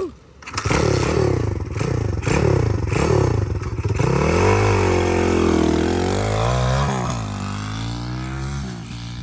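Dirt bike engine revved in about five quick rising revs, then held at a steady higher pitch for a few seconds before dropping away near the end.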